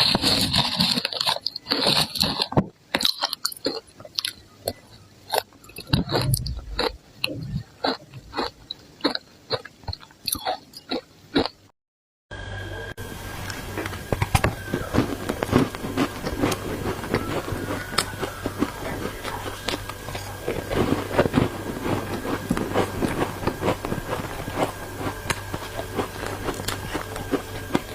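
Close-up crunching of someone biting and chewing ice coated in matcha powder, with rapid, uneven crunches. The sound cuts out briefly before the halfway point, and the chewing then continues with a steady low hum underneath.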